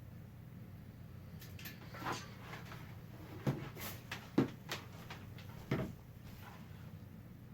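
A handful of short knocks and clicks, from objects being handled close to the microphone, the loudest three spread through the middle few seconds, over a low steady hum.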